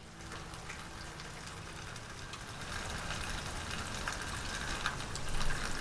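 Rain falling and pattering, with individual drops ticking sharply, growing louder toward the end and stopping abruptly.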